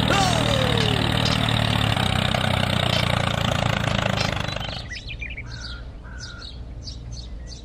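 A small engine running steadily, with a tone sliding down in pitch right at the start. About five seconds in the engine drops away and birds chirp in short repeated calls.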